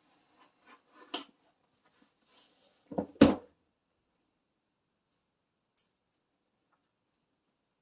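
Handling noise: a few light knocks and a brief rustle, then two loud thumps close together about three seconds in, followed by quiet with one faint click.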